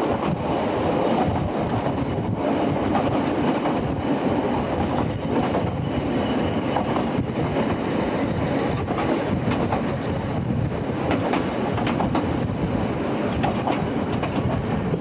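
A narrow-gauge Ffestiniog Railway train running along the track, heard from on board: a steady rumble of wheels on rails with occasional clicks over the rail joints.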